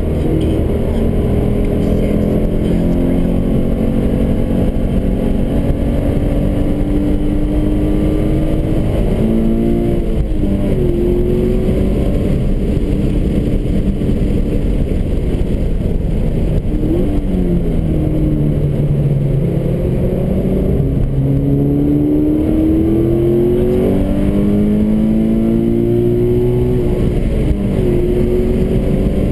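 Subaru BRZ's 2.0-litre flat-four engine heard from inside the cabin while lapping a race track. It climbs in pitch under acceleration and drops back at gear changes several times, over a constant rumble of road and tyre noise.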